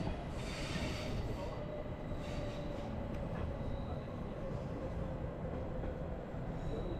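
Bernese Oberland Railway narrow-gauge train heard from on board, running slowly into the station: a steady rumble of wheels on rail with a thin whine that slowly falls in pitch as it slows. A brief hiss sounds in the first second or so.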